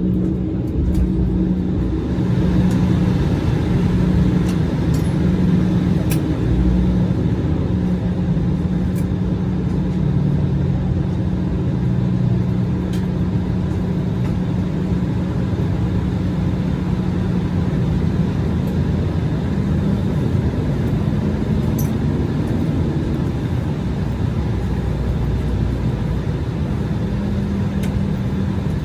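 Steady cabin rumble of an Embraer regional jet on the ground, its engines at idle while it taxis. A low hum runs through it and shifts slightly in pitch partway through.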